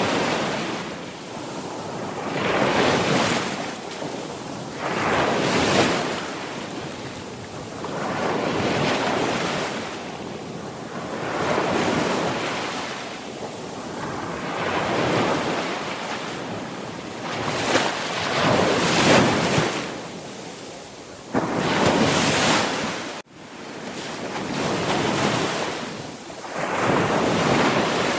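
Sea waves breaking on a shore, the surf rising and falling in a slow rhythm, a swell about every three seconds. The sound cuts out for an instant about two-thirds of the way through.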